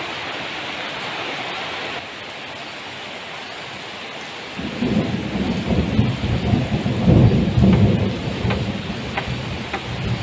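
Heavy tropical rain falls steadily. About four and a half seconds in, a long rolling rumble of thunder sets in and carries on, louder than the rain.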